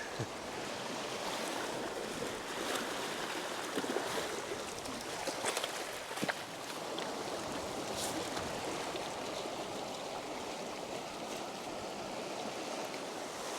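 Small waves washing steadily onto a stony beach, with a few faint clicks scattered through the wash.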